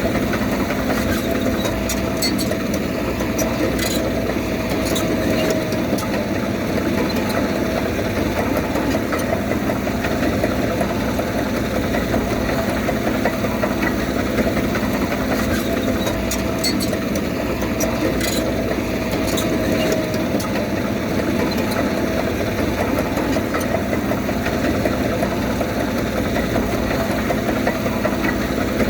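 Komatsu D31P bulldozer's diesel engine running steadily, with two spells of sharp metallic clicking.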